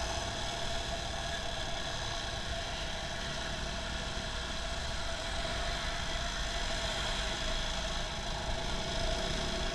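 Motorcycle engine running steadily with road noise, heard from on the bike; a few constant whining tones ride over it.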